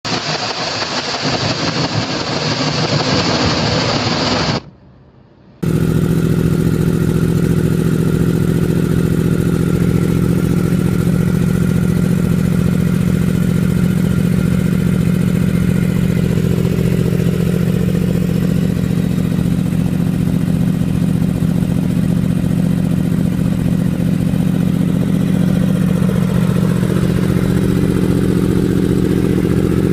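Motorcycle engine running at a steady speed, the sound dropping away briefly about five seconds in before running on evenly.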